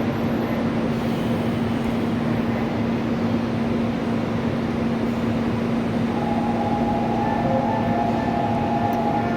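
Seoul Line 4 electric train running at the station: a steady rumble with a constant low hum. About six seconds in, a few higher whining tones join.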